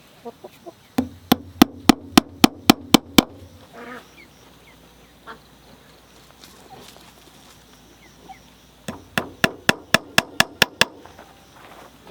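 Hammer driving nails into wood in two runs of quick, even blows, about four a second, eight or nine strikes each; the second run starts about nine seconds in.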